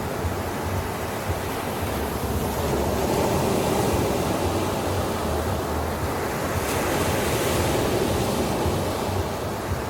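Ocean surf washing onto a beach: a continuous rushing wash of waves that swells twice.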